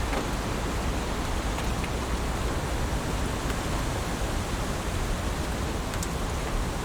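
Heavy rain falling steadily as a dense, even hiss, with a few separate drops ticking now and then.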